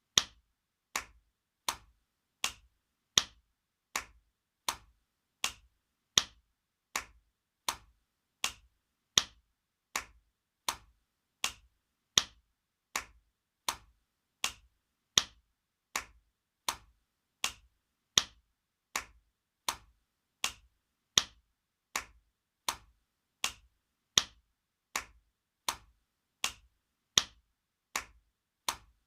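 Spanking sound effect: sharp, single slaps repeating at an even pace, about four every three seconds, some a little louder than others.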